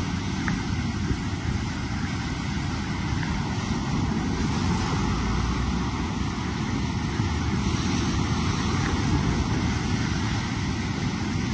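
Steady low rushing roar of fast-flowing floodwater, with no distinct strokes or changes.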